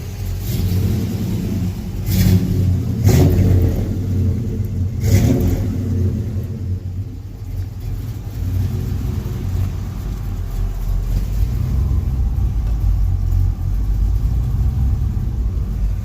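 Brand-new V8 crate engine in a 1956 Chevrolet Bel Air running as the car is driven. It revs up in louder surges about two and five seconds in, then settles to a steadier, lower running sound.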